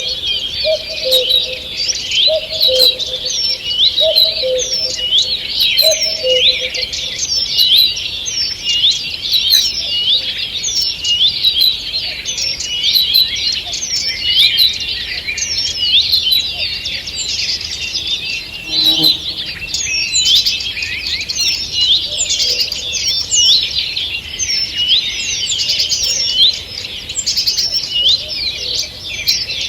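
A dawn chorus of many songbirds in a forest: dense overlapping chirps, trills and quick whistled phrases that never let up. A lower two-note call repeats several times over the first few seconds.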